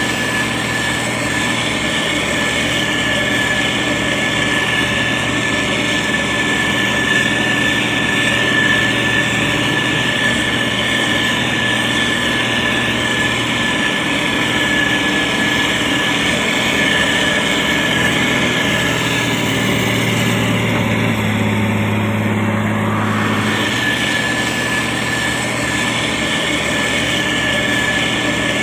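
Diesel engine of a SANY STG190C-8S motor grader running steadily while grading, with a constant high whine over the engine note. About twenty seconds in, the low engine hum grows stronger for a few seconds.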